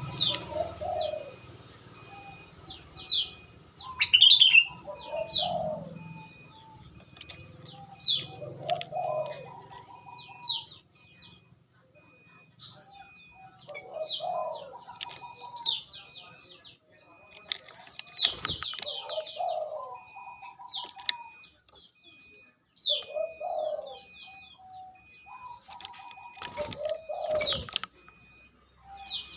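Sooty-headed bulbul (kutilang) calls played as a bird lure: quick high chirps that sweep downward, repeated every second or so, mixed with lower, fuller phrases every few seconds. A faint, evenly broken high tone runs behind them.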